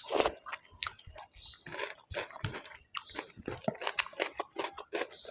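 A person chewing food, with irregular crunches and wet mouth clicks.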